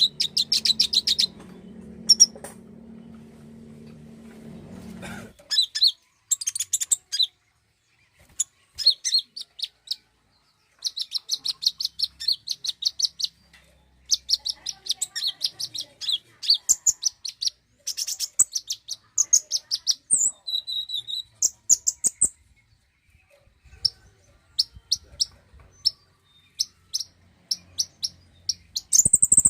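Konin sunbird song: fast runs of short, high chirping notes in bursts with brief pauses between them. It is a lure recording meant to prompt a kept konin to sing. A low hum sits under the first five seconds and then cuts off.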